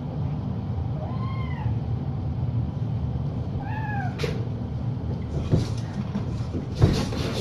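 Cat meowing twice, short calls that rise then fall, about a second in and again near four seconds, over a steady low hum. A few knocks and rustles follow near the end.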